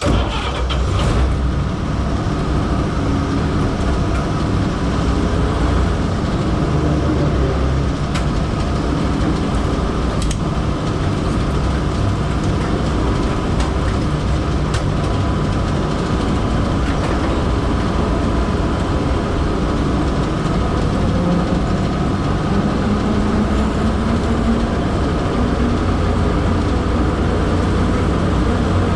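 Old truck's 235 cubic-inch inline-six engine running steadily while the truck is driven, with a low rumble and road noise and a few faint knocks.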